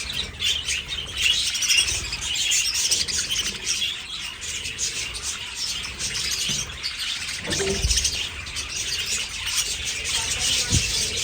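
A flock of budgerigars chirping and chattering continuously, many birds at once, with a couple of dull low knocks in the second half.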